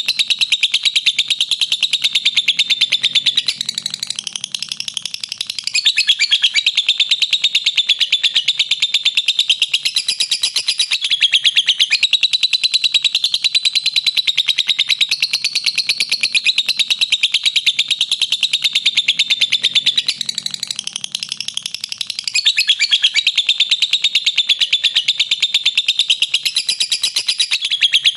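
Lovebird 'ngekek': a long, unbroken, rapid chattering trill of high-pitched notes. It dips briefly in loudness about four seconds in and again about twenty seconds in.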